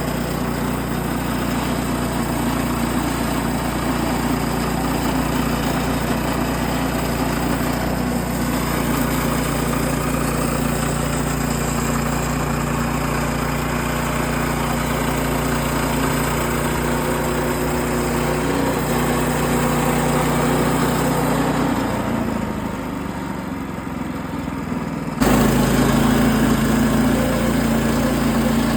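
A small engine running steadily with an even drone. It dips a little around three quarters of the way through, then comes back suddenly louder about 25 seconds in.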